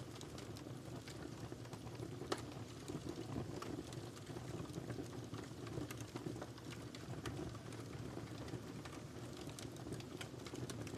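Wood fire burning in a fireplace: a steady low rumble with scattered sharp crackles and pops throughout, one louder pop about two seconds in.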